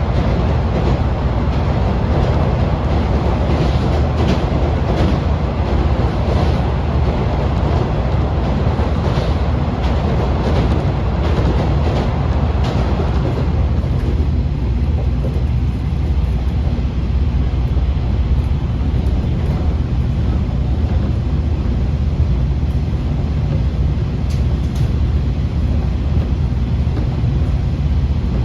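Kiha 40 series diesel railcar running along the line, with a steady rumble of engine and wheels and scattered clicks over the rails. A little after halfway the higher part of the noise falls away and the sound turns duller.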